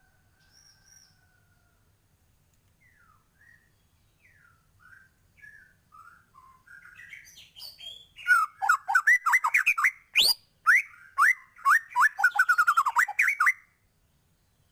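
White-rumped shama singing: soft, scattered whistled notes build up, then a loud run of rapid, quick-gliding whistles for about five seconds, stopping short near the end.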